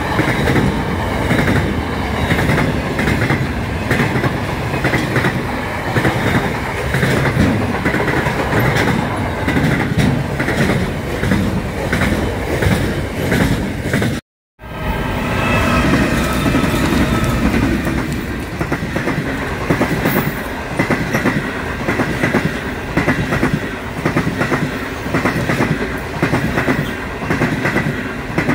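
A container freight train's wagons rolling past at track level with a rhythmic clickety-clack of wheels over the rails. After an abrupt cut about halfway, the stainless-steel carriages of the Indian Pacific passenger train roll past with the same steady clatter.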